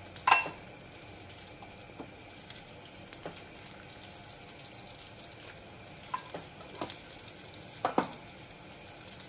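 Parboiled potato pieces shallow-frying in hot oil in a stainless steel kadhai, a steady sizzle. A sharp clink of cookware comes just after the start, with a few lighter knocks and another clink about eight seconds in.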